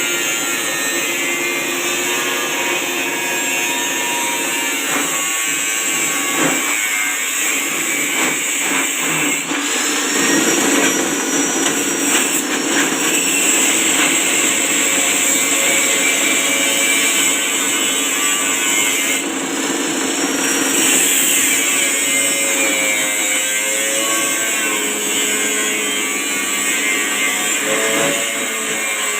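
Small grass-chopping machine driven by a 1/4 hp electric motor, running steadily with a loud whirring hiss.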